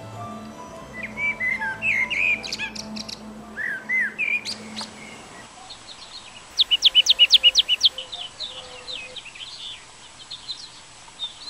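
Small birds chirping and calling, with short scattered notes. About six and a half seconds in comes a fast, loud run of about a dozen sharp notes lasting just over a second, followed by a few faint chirps.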